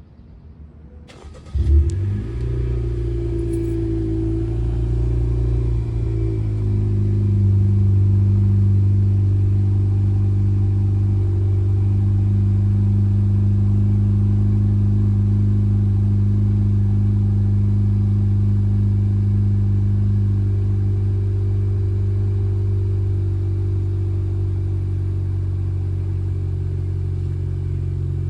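Honda Civic EX's 1.5-litre turbocharged four-cylinder starting up through a muffler-deleted exhaust that still has its resonator: a short crank, a brief rev flare as it catches about a second and a half in, then a steady idle. It sounds much like stock, just a tiny bit deeper.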